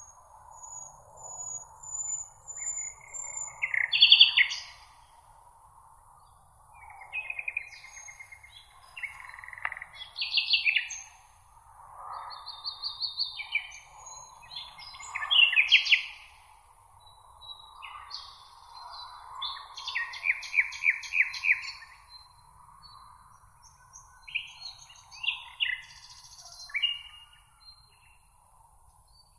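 Meadow songbirds chirping and singing in short, varied phrases and trills that overlap and come one after another, over a soft steady background hiss.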